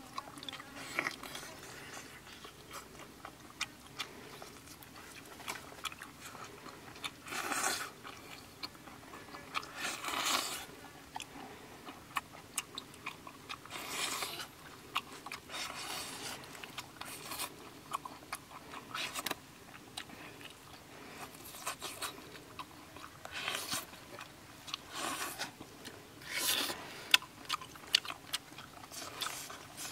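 Close-up eating sounds: a person biting into cooked chicken and chewing it, with a louder bite or crunch every few seconds between quieter chewing clicks.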